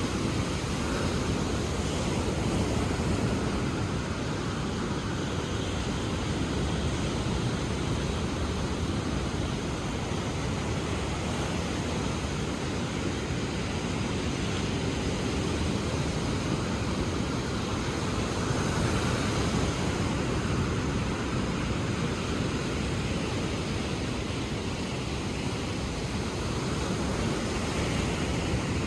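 Ocean surf washing ashore: a steady low rushing noise that swells and eases gently every several seconds.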